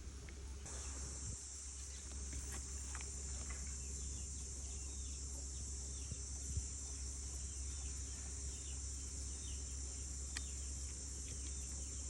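Insects, crickets or cicadas, droning in a steady high-pitched buzz that starts just under a second in, with faint bird chirps and a couple of small clicks over a low outdoor rumble.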